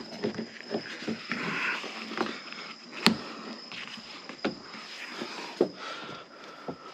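Hand work on car interior trim: scattered light knocks, rustles and clicks, with one sharp snap about three seconds in.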